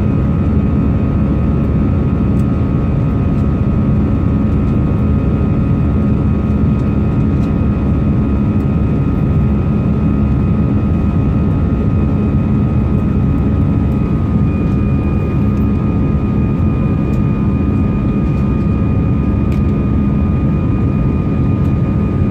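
Jet airliner engines running at takeoff power: a steady, loud rumble with a constant high whine over it.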